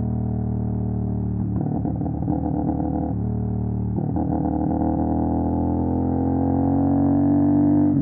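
CFMOTO 450 SR's parallel-twin engine through an MSH G6 full-system exhaust, holding a steady note, turning rough and pulsing twice in the middle, then rising slowly in pitch as it accelerates.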